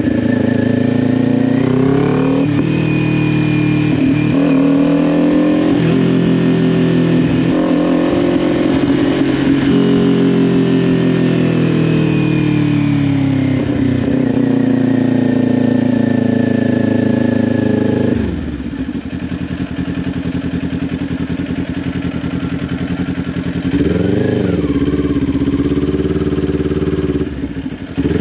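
Kawasaki Ninja 400's parallel-twin engine through a Leo Vince LV10 exhaust, pulling through the gears, its note climbing and then dropping at each shift. About two-thirds of the way in it falls back to a lower, quieter, steady note. A short rev comes near the end, and then it picks up again.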